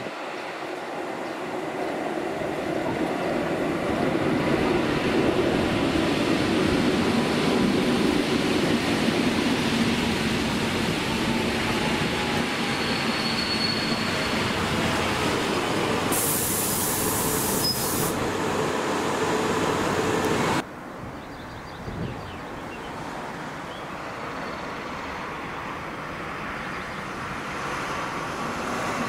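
A train passing close by: the running noise of its wheels on the rails builds over the first few seconds and holds steady, with a brief high hiss about sixteen seconds in. The sound cuts off abruptly about twenty seconds in, leaving a quieter, steady background.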